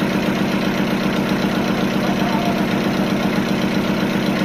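Sawmill machinery engine running steadily with a fast, even pulse, with no cutting heard.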